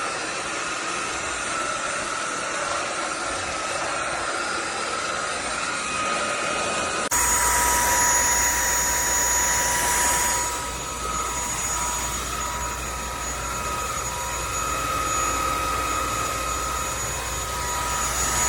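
INTETURE cordless stick vacuum's motor running steadily, a rushing whine with high tones over it. About seven seconds in, the sound shifts abruptly to a slightly different whine with a low hum underneath.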